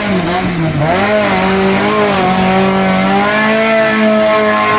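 Vehicle engine running hard at steady revs, its pitch dipping briefly twice near the start before holding level.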